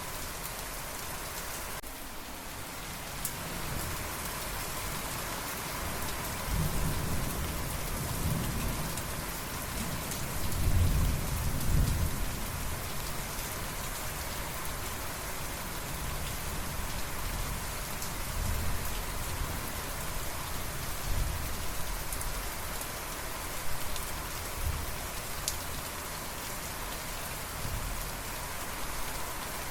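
Steady rain falling, with rolling thunder rumbling low in the background; the thunder swells strongest about a third of the way in, then comes and goes in smaller rumbles.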